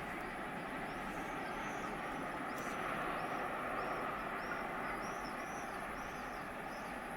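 Steady noise of a train running through the station, with a small bird chirping about twice a second over it.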